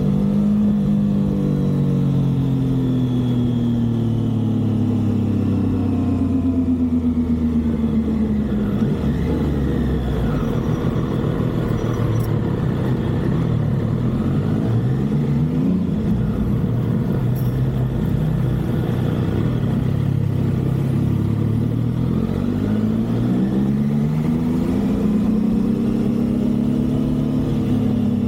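Motorcycle engine running while riding, its pitch falling and rising several times as the bike slows, accelerates and shifts.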